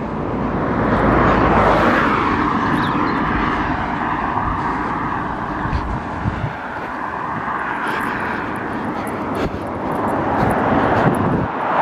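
Road traffic going past: a continuous rush of tyres and engines that swells over the first two seconds. Wind gusts rumble on the microphone now and then.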